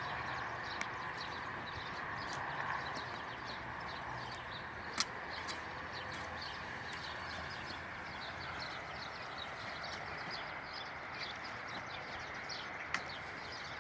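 Outdoor farmyard ambience: a steady background hiss with many short, high chirps of small birds, and a sharp click about five seconds in and another near the end.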